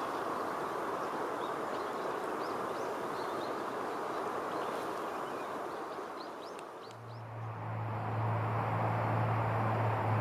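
Small birds giving short, high chirps over a steady rushing background noise. About seven seconds in, the chirps stop and a steady low hum takes over.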